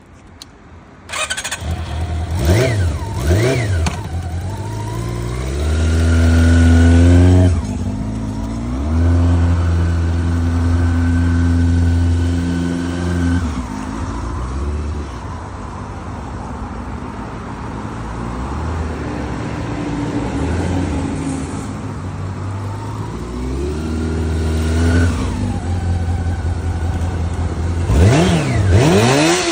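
Honda CB400 Super Four's inline-four engine starting about a second in, then being blipped and held at raised revs several times, dropping back to idle in between.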